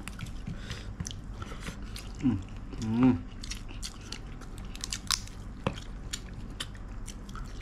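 A person chewing and biting into fried crab with rice, eaten by hand: many small crunches and wet mouth clicks, with a couple of short murmured voice sounds about two and three seconds in.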